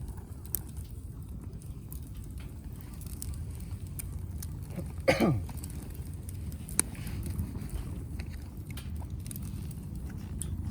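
Wood fire burning, with a steady low rumble and scattered sharp crackles and pops. About five seconds in, a brief louder tone slides quickly downward in pitch.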